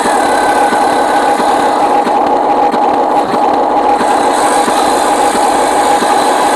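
Remote-control model truck's small electric motor and gearbox running steadily, with a constant whine.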